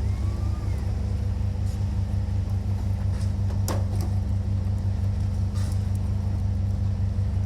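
An engine running steadily, a low even drone, with a few scattered sharp knocks, the clearest about halfway through.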